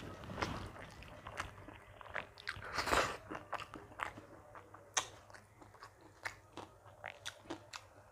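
Close-up mouth sounds of a person chewing a meal of rice, dal and mashed vegetables: many short wet clicks and smacks, with a longer, louder noisy sound about three seconds in.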